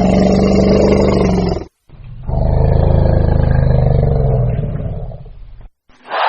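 Hippopotamus bellowing: two long, loud, rough calls, the second longer and fading toward its end.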